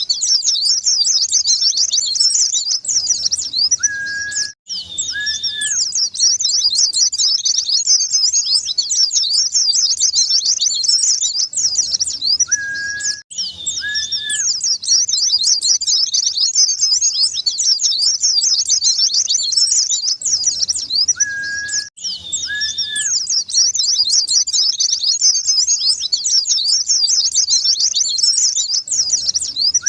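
Dense, rapid high-pitched chirping and twittering of white-eyes (pleci), on a recording that repeats about every nine seconds. Each repeat is marked by a brief dropout, with a couple of short, level, lower whistled notes around it.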